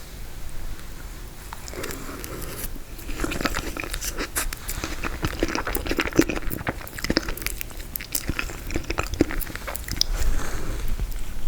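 Close-miked eating of frozen tiramisu: bites and chewing with crisp crackles and crunches from the frozen cream and ladyfingers, close to the microphone.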